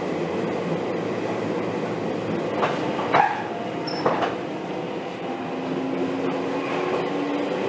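Seibu 2000 series electric train running, heard from inside the car: a steady rumble of wheels and motors with a few sharp knocks around the middle and a faint tone that rises slowly near the end.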